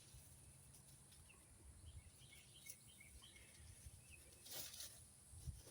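Near silence: faint outdoor ambience with a string of soft, high bird chirps in the middle and a brief soft noise near the end.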